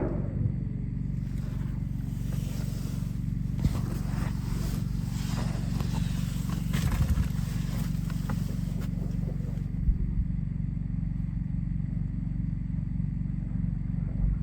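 Distant combat: a muffled explosion at the start, then scattered small-arms shots and crackle, over a steady low hum.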